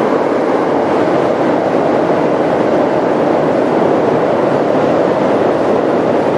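A passing train: a loud, steady rolling rush of wheels on rail that swells in just before and holds level.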